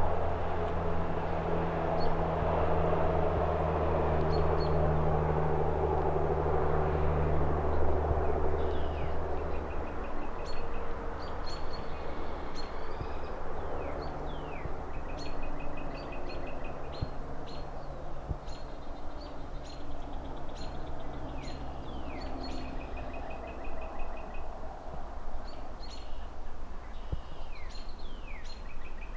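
Outdoor city ambience: a low engine drone fades away about a third of the way through. After that, birds chirp and trill again and again over a faint background of traffic.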